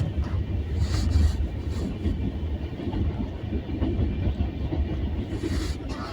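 Train running on rails: a steady low rumble, with a few short knocks about a second in and again near the end.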